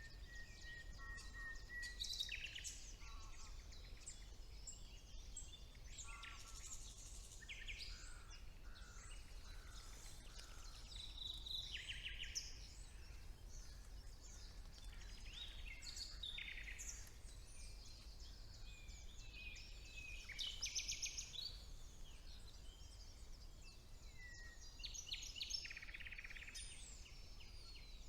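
Several woodland songbirds singing over one another: varied whistled phrases and rapid trills, with the loudest phrases about two seconds in, near the middle and about three quarters through. A faint low rumble sits underneath.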